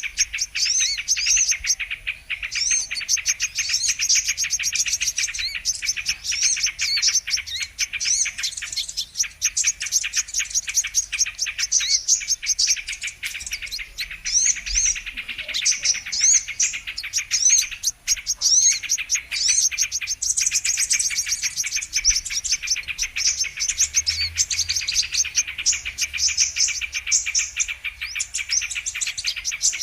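Brown-throated sunbirds (kolibri kelapa) calling in a dense, unbroken stream of rapid high chirps and quick sweeping notes, several calls overlapping at once.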